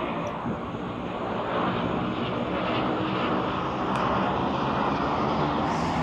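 Airplane flying overhead, a steady engine drone slowly growing louder.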